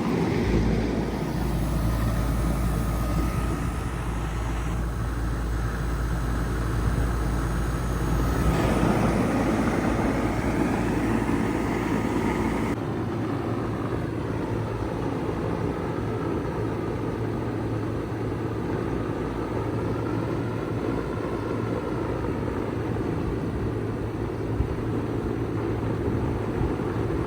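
2004 Bard wall-hung heat pump running steadily in heat mode: a continuous mechanical hum and fan noise, whose sound shifts about thirteen seconds in.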